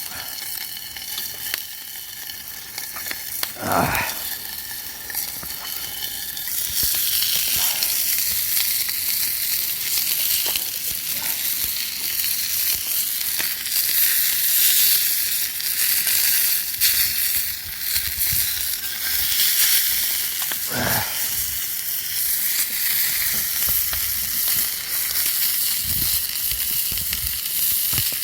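Food frying in a pan over a campfire, a steady sizzle that grows louder about six seconds in, with a couple of short knocks.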